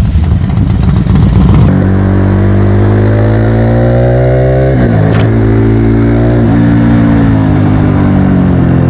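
Motorcycle engine accelerating: after a rough rumble for the first couple of seconds, the engine note climbs steadily, drops sharply at a gear change about five seconds in, climbs again and then settles to a steady cruise.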